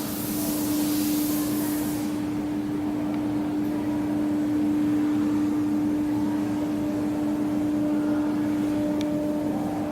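A 250 kW Shangchai diesel generator set running at a steady speed, giving a constant hum with a strong steady tone. A high hiss sounds over it for the first two seconds and then stops.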